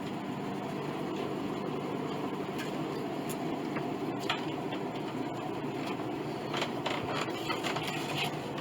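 A steady mechanical hum, with a few light clicks.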